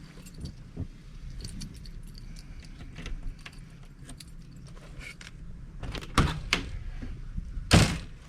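A bunch of keys jangling and clinking while being handled, with a couple of sharp knocks about six seconds in and a louder clunk just before the end.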